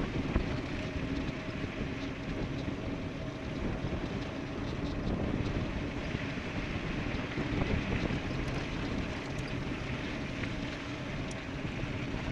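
Steady rush of wind across the microphone with tyre noise from an e-bike riding downhill at speed, with a few faint ticks.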